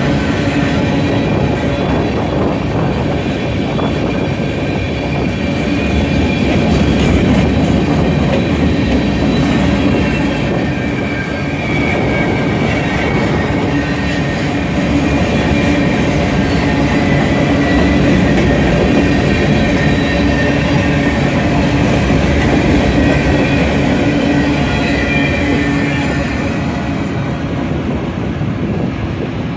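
Freight train of covered hopper cars rolling past at close range: a steady rumble and clatter of steel wheels on the rails, with a faint high wheel squeal coming and going. The noise eases off near the end as the last cars pass.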